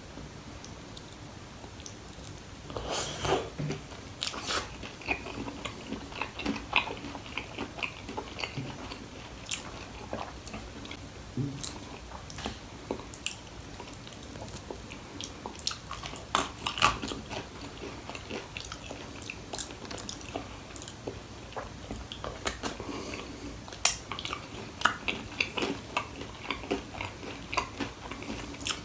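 Close-up biting and chewing of crispy fried chicken popcorn: irregular crunches and chomps, with a louder run of crunching about three seconds in.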